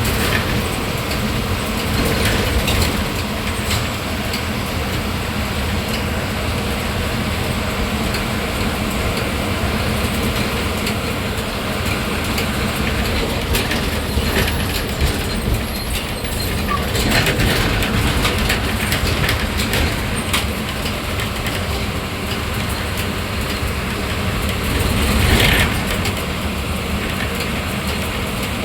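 Diesel engine of an Ashok Leyland MSRTC bus running steadily, heard from the driver's cabin while on the move. Road noise and frequent short rattles and knocks from the cabin are mixed in, with a brief louder stretch near the end.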